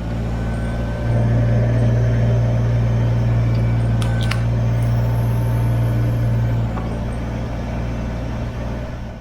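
Kubota BX23S tractor's three-cylinder diesel engine running steadily while the backhoe works, louder from about a second in until about seven seconds in. A couple of sharp clicks come about four seconds in.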